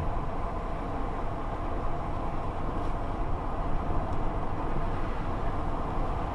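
Steady rushing noise of storm wind and heavy rain, with an uneven low rumble of wind gusting on the microphone.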